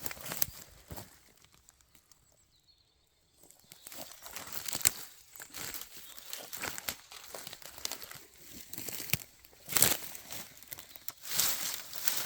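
Footsteps crunching and rustling through dry leaves and twigs on the forest floor, with a pause of about two seconds near the start and a few louder crunches later on.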